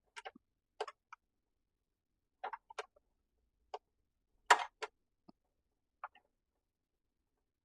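Scattered clicks and knocks of parts being handled while a dust chute is fitted onto a miter saw, in small clusters with the loudest knock about four and a half seconds in.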